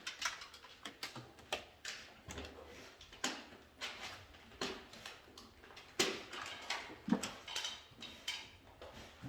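Irregular clicks, taps and knocks of hand wiring work: tools, wires and parts handled and fastened on an electrical control panel board.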